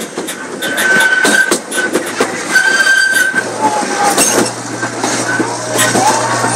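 Small zoo ride train running on its track, its wheels clicking over rail joints, with a high-pitched wheel squeal that comes and goes.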